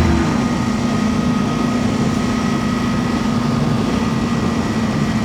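Motorcycle running at a steady cruising speed, its engine note held even, under a constant rush of wind and road noise.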